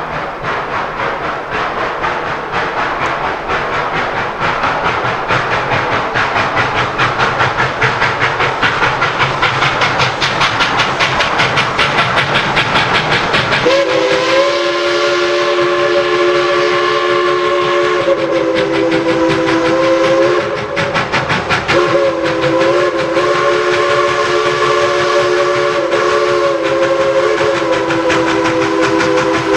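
Steam locomotive working with its exhaust chuffing rapidly. About halfway through, its whistle sounds a long chord of several notes at once, stops briefly, then sounds again over the continuing chuffing.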